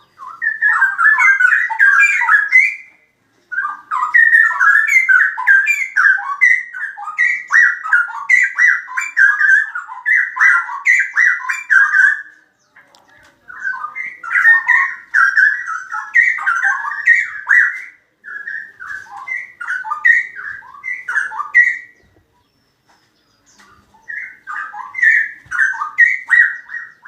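Straw-headed bulbul singing loudly: long runs of quick, rich warbling phrases, broken by a few short pauses.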